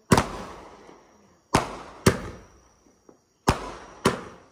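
Consumer fireworks going off: five sharp, loud reports, mostly in pairs about half a second apart and repeating about every two seconds, each trailing off in a rolling echo.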